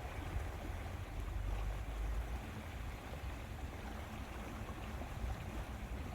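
Lakeside water and wind ambience: a steady wash of water noise over a low, fluctuating rumble, with no distinct events.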